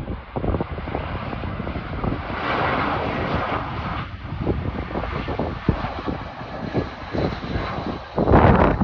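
Jet engines of an Airbus A320 running after landing, mixed with strong wind buffeting the microphone in low thumps. A loud gust of wind noise comes in near the end.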